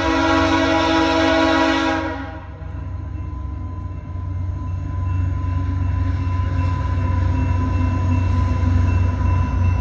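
VIA Rail passenger train's multi-note air horn sounding a long blast that cuts off about two seconds in, followed by the low rumble of the train on the rails, growing louder.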